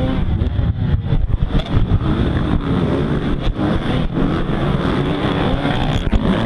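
Motocross bike engine running hard, its pitch rising and falling again and again as the rider works the throttle and shifts.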